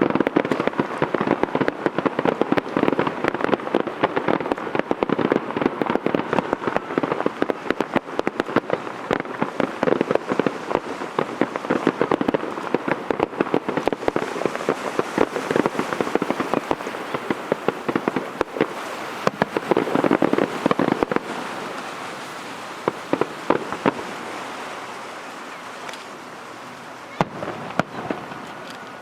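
Aerial fireworks display: a dense, rapid run of crackling and bangs from many shells bursting together. After about 21 seconds it thins out and fades, leaving only a few scattered bangs.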